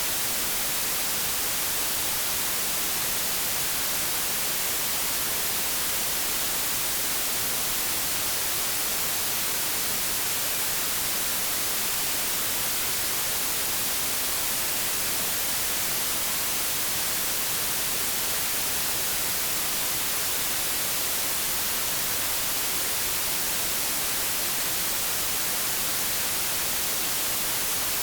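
Steady white-noise static, an even hiss like a detuned TV or radio, strongest in the high end and unchanging throughout.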